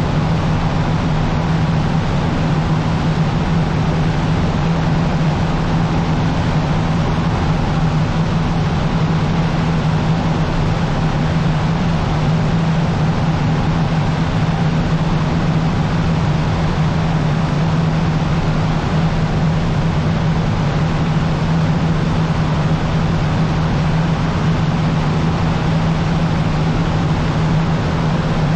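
Cessna 150's four-cylinder Continental O-200 engine and propeller droning steadily at cruise power, with a strong low hum and an even rushing noise.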